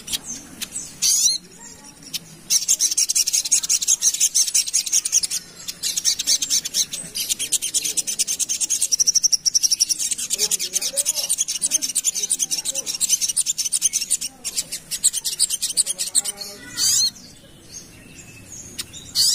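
A sogok ontong, a small nectar-feeding songbird, singing a long, very fast rattling trill of high-pitched notes that runs for about twelve seconds, with short sharp calls before and after it.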